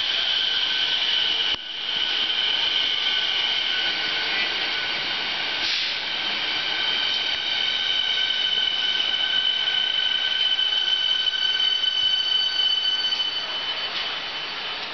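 Siemens Nexas suburban electric train rolling slowly into the platform under braking, with a steady, high-pitched squeal of several tones over the rumble of the cars. The squeal fades out about a second before the end.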